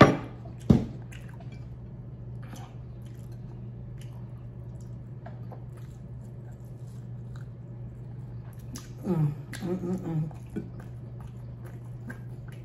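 A person chewing and biting food close to the microphone, with wet mouth clicks and squishes. Two sharp knocks come right at the start, and a short murmur of voice about nine seconds in.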